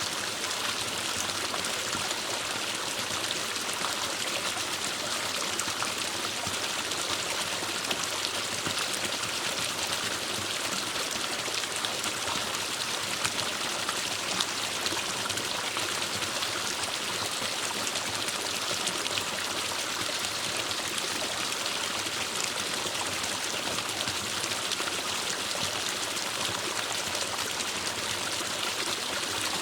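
Forest stream running steadily over rocks, a continuous splashing rush with small irregular drips and trickles.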